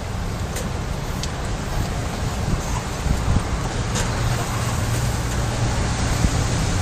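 Typhoon wind and rain: a steady rushing noise with a deep rumble of wind buffeting the microphone and a few scattered taps.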